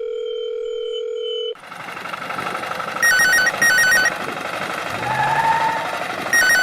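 A steady electronic tone stops about a second and a half in, and a steady noisy machine sound takes over. An electronic telephone ringtone rings twice over it, each time as a quick warbling double ring: once about halfway through and again near the end.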